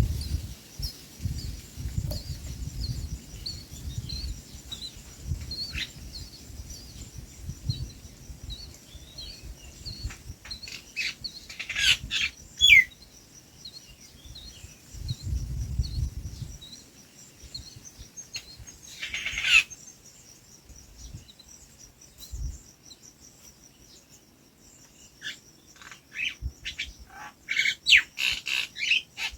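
Small birds chirping: a run of short high chirps throughout, with louder bursts of calls about twelve seconds in, near twenty seconds and near the end.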